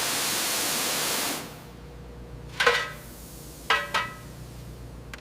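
Compressed air hissing from a blow gun for about a second and a half, drying the freshly rinsed engine, then cuts off. After that come a few light metallic clinks, each with a short ring, two of them close together.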